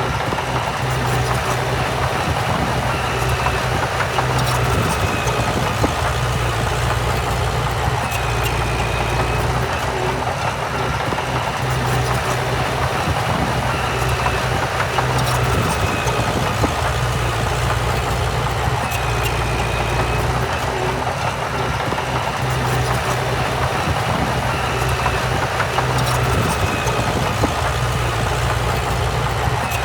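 Heavy diesel earthmoving machinery running continuously, its engine note swelling and easing every few seconds, with a faint high tone recurring every couple of seconds.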